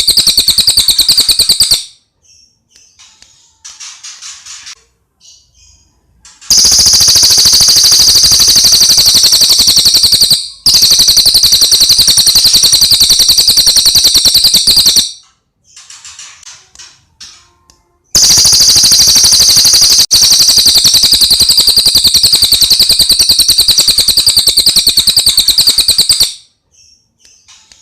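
Cililin coklat singing: long, loud runs of very rapid high-pitched chirps, each run lasting several seconds, broken by short pauses with a few faint chirps.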